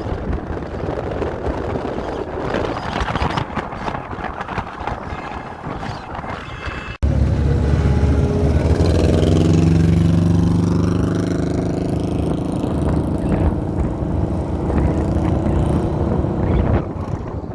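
Traffic noise from parade vehicles with wind buffeting the microphone. After an abrupt cut about seven seconds in, a nearby engine runs loudly, its pitch slowly shifting.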